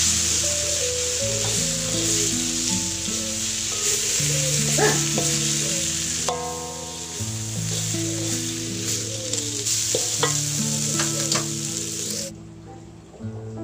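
Sambal-coated fish and basil leaves sizzling in a hot metal wok as a metal spatula stirs and scrapes them, with a few sharp scrapes of the spatula on the pan; the sizzling cuts off suddenly near the end. Background music plays underneath.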